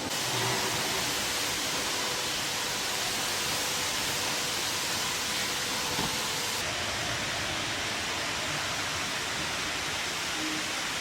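Steady, even rushing noise with faint steady hum tones underneath, without pauses or distinct events.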